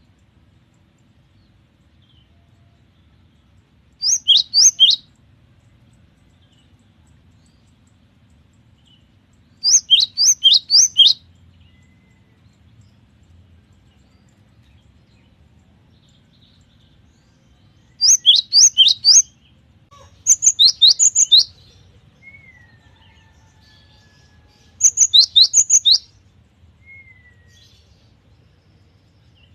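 Cinereous tit (gelatik batu) in full song: five bursts of quick, high, falling whistled notes, each burst about a second long, with pauses of one to several seconds between them.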